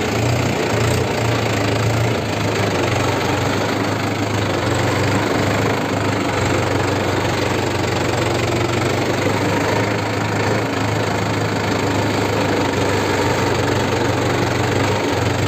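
Tractor's diesel engine running steadily at an even speed, a deep continuous hum with a knocking rattle.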